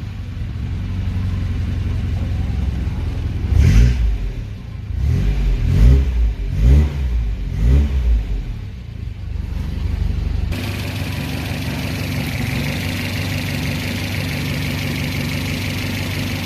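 Chevrolet Chevette's four-cylinder engine running: revved briefly four times, then settling to a steady idle. About ten seconds in the sound changes abruptly to a steadier idle with more hiss.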